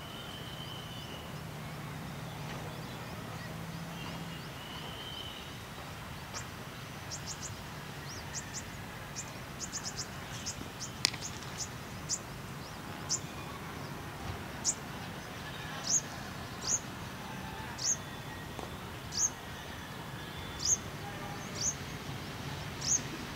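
Open-air ambience with a small bird repeating a short, high, falling chirp, at first in quick clusters and then about once a second, growing louder towards the end. A single sharp knock is heard about eleven seconds in.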